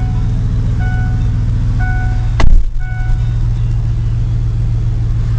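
Ford F-150 pickup engine idling with a steady low drone, while a short beep chimes about once a second. About two and a half seconds in comes one loud sharp thump, and the beeping stops after it.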